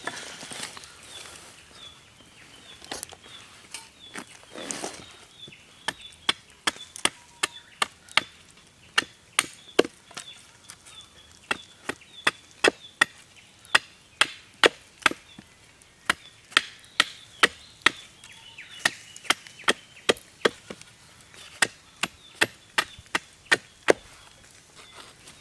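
Firewood being chopped at a campsite: a long run of sharp wooden knocks, about two or three a second, starting about six seconds in.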